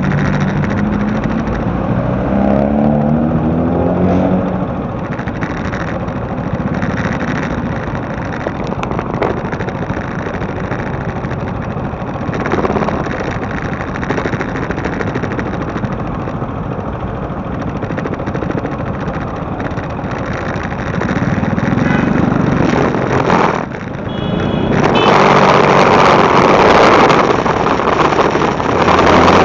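Motorcycle engine running while being ridden, its pitch rising as it accelerates over the first few seconds. Near the end, loud wind noise on the bike-mounted camera's microphone covers it.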